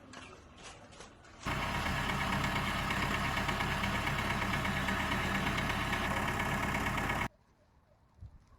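A vehicle engine running steadily, loud, starting abruptly about a second and a half in and cutting off abruptly near the end; faint clicks before and after it.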